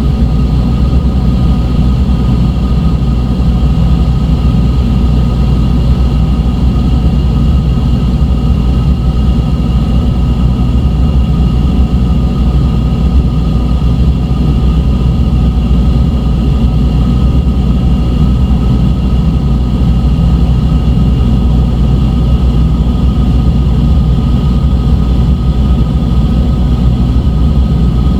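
Dark ambient drone music: a loud, unchanging low synthesized rumble with several thin high tones held steadily over it.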